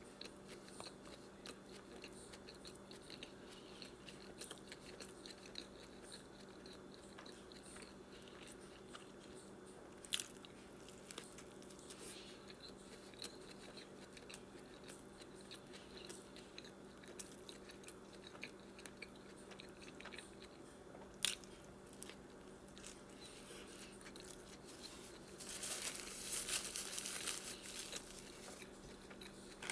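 Close-miked chewing of a McDonald's Big Mac: soft mouth sounds and many small clicks over a steady low hum. There are a couple of sharp clicks, and a louder stretch of noise near the end.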